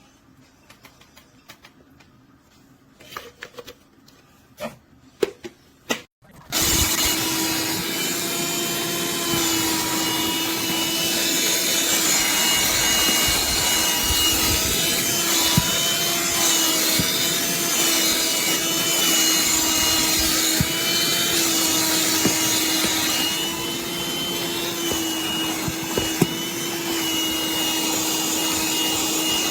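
A few light plastic clicks and knocks, then a Black+Decker Dustbuster cordless handheld vacuum switches on about six seconds in. It runs steadily with a motor hum and a high whine that waver slightly.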